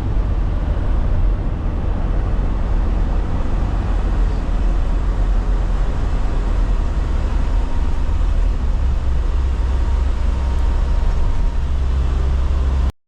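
A moving bus: a steady, loud low rumble of engine and road noise.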